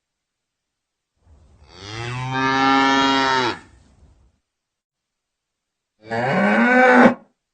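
A cow mooing twice: a long, steady moo of about two seconds, then a shorter moo about six seconds in whose pitch rises, with silence between them.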